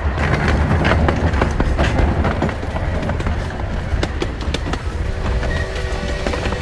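Small open-car train rolling along its track: a steady low rumble with irregular clicks and clacks of the wheels on the rails. A held tone joins in briefly about five seconds in.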